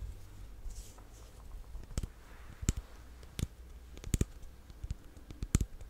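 Close-miked sharp clicks, irregularly spaced and a few of them in quick pairs, starting about two seconds in over a faint low hum.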